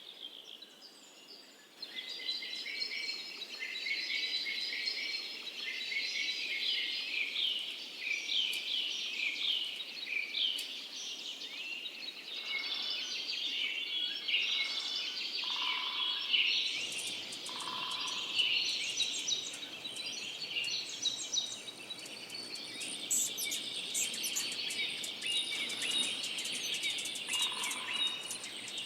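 Songbird singing a long, lively run of rapid chirps and trills, with a few short lower notes mixed in. In the last several seconds a steady high hiss joins, like insects.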